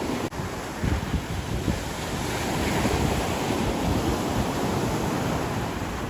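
Ocean surf washing in on the beach; a wave's rush builds a couple of seconds in and eases toward the end. Wind buffets the microphone with low rumbles in the first second or two.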